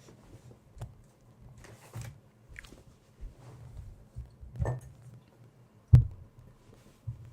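Small objects being handled close to the microphone: scattered soft taps, rustles and low knocks, with one sharp click about six seconds in.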